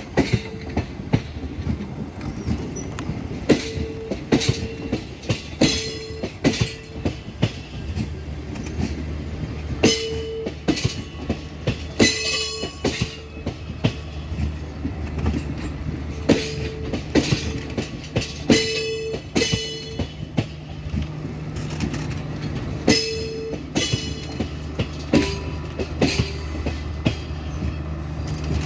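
Passenger coaches of a departing train rolling past at low speed, wheels clacking over rail joints in quick pairs over a steady rumble, with short metallic wheel squeals every few seconds.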